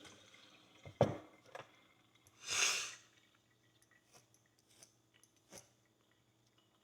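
A sharp knock about a second in, then a short burst of hiss from a water jet, then a few faint ticks from a metal pick working dirt out of an old steel horseshoe.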